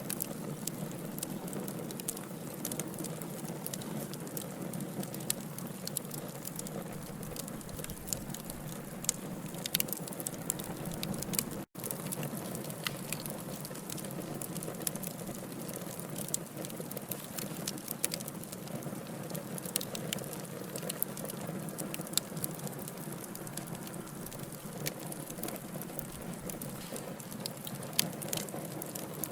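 Wood fire burning in a fireplace, crackling with frequent sharp, irregular pops over a steady hiss. The sound cuts out for an instant about twelve seconds in.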